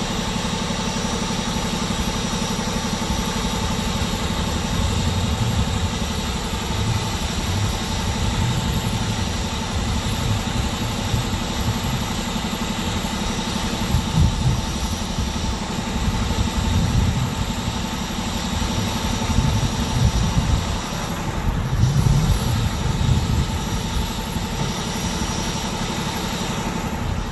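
A vehicle engine idling steadily with a low, uneven rumble.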